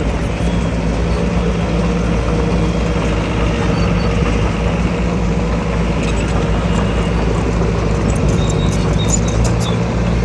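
Heavy diesel engine of earthmoving machinery running steadily under load, holding an even pitch.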